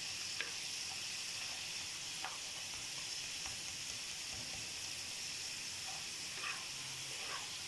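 Potato fries deep-frying in hot ghee in a pan: a steady sizzle with a few faint pops and crackles scattered through it.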